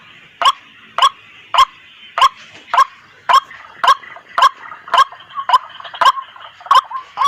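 White-breasted waterhen calling: a sharp, loud note repeated steadily about twice a second, some thirteen times, with a fainter steady noise between the notes.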